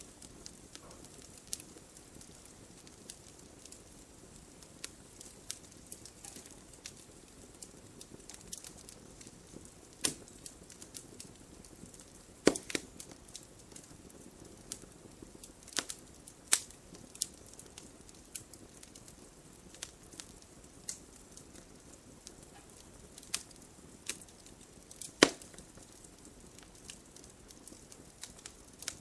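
Wood fire burning in a fireplace: a soft low hiss of flames under irregular sharp crackles and pops from the burning logs, with a few louder snaps scattered through, the loudest about 25 seconds in.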